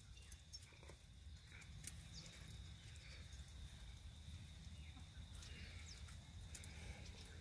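Near silence: a faint low rumble with a few soft ticks.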